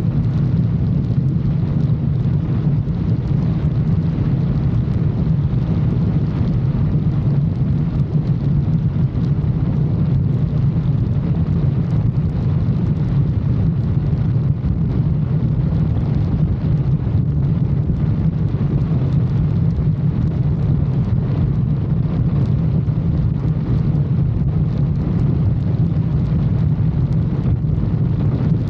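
Motorcycle engine running at a steady cruising speed, with wind noise on the microphone.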